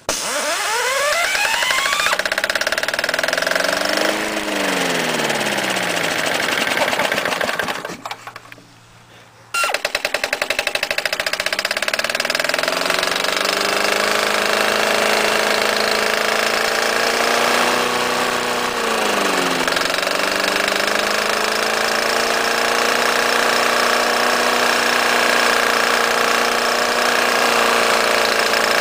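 Briggs & Stratton single-cylinder small engine running with its magneto removed and no ignition, the hot fuel firing under compression with the help of a diesel fuel catalyst. It speeds up and sags, cuts out about eight seconds in, catches again a second and a half later, and keeps running with its speed rising and falling.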